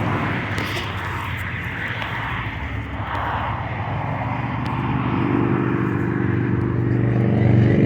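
A vehicle engine running steadily with a low hum, over a haze of outdoor traffic noise. About five seconds in a higher hum joins and the sound grows louder near the end.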